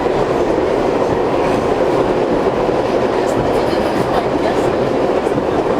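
An R62 subway car running at speed between stations, heard from inside: a steady, loud rumble of wheels on the rails with faint clicking.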